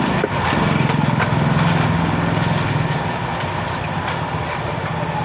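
A motor vehicle's engine running close by with a steady low hum, loudest for the first few seconds and then easing off a little, over general street traffic noise.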